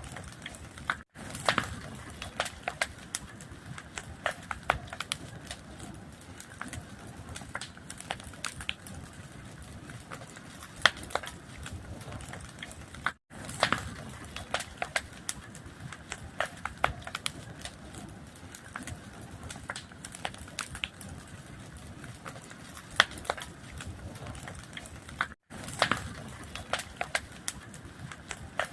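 A fire crackling: a steady hiss with many irregular sharp pops and snaps. The sound cuts out briefly about every twelve seconds, three times, where the recording loops.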